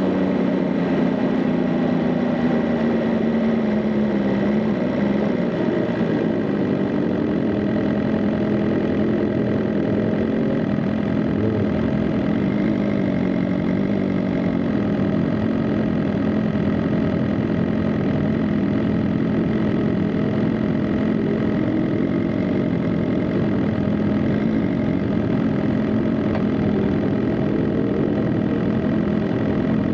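BMW M 1000 RR superbike's inline-four engine settling from a higher pitch over the first few seconds to a steady, low-revving run.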